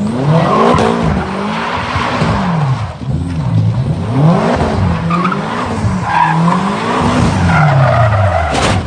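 A car engine revved hard up and down over and over while the tyres squeal and skid, as in a drift. The sound cuts off abruptly near the end.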